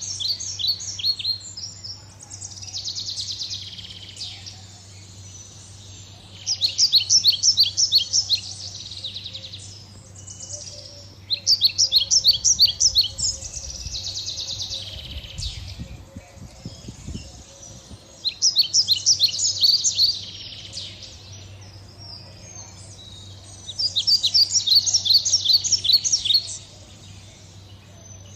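Small pet parrots (love birds) chirping. Four loud bouts of rapid, high, repeated chirps come a few seconds apart, with softer chatter between them.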